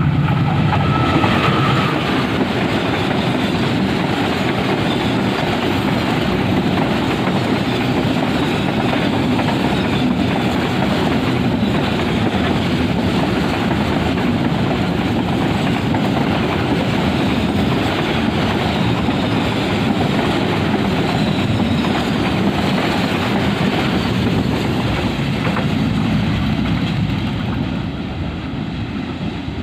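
Container freight train's wagons rolling past, a steady loud noise of wheels running on the rails, getting quieter near the end.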